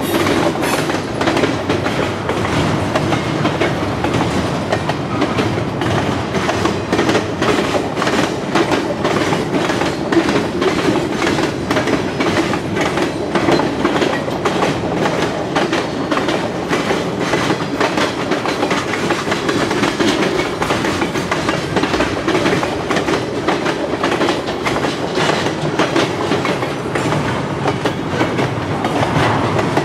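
Freight train cars rolling past, the wheels clicking and clattering steadily over the rail joints.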